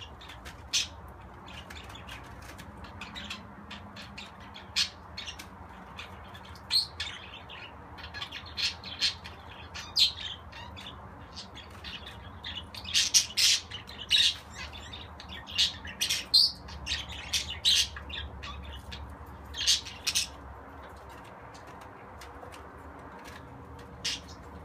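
Budgerigar chirping and squawking in short, sharp calls that come thickest in the middle and thin out near the end.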